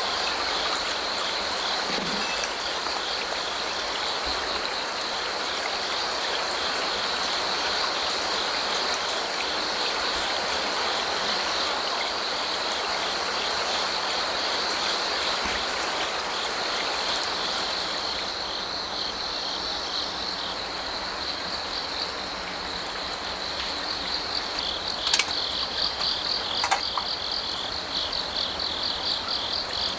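Crickets chirping in a steady pulsing trill over the continuous rush of a stream, with a couple of sharp clicks near the end.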